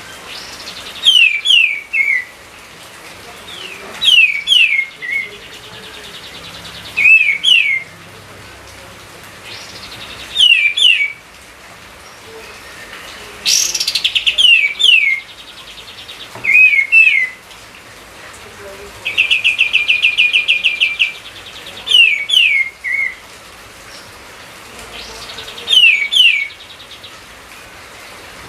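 A songbird singing a short phrase of three or four quick notes sliding down in pitch, repeated about every three seconds, with a fast rattling trill twice in the middle.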